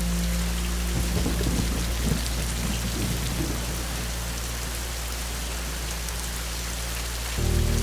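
Steady rain, with a low roll of thunder about one to three and a half seconds in.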